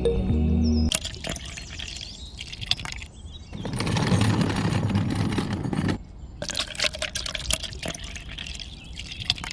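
Liquid pouring and splashing, loudest for about two seconds in the middle, after a short stretch of music at the start.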